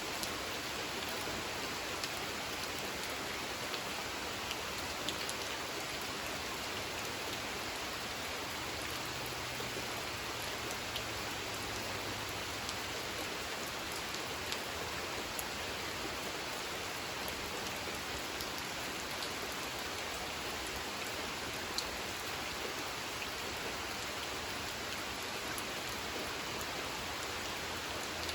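Steady rain falling on a pond: an even hiss with scattered sharp taps of single drops.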